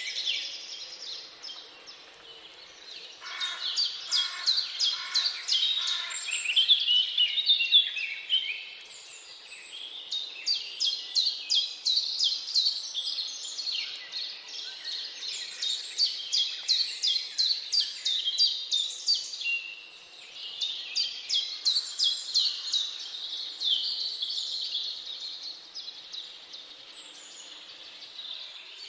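Several songbirds singing in a forest, with rapid runs of high, repeated chirps one after another over a faint steady background hiss.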